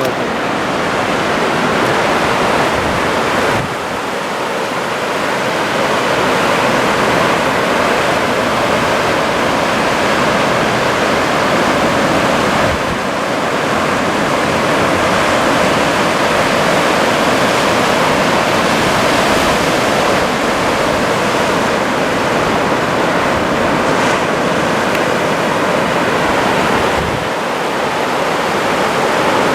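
Low surf breaking and washing up a sandy beach: a steady, loud rush of water that eases briefly about four seconds in and again near the end.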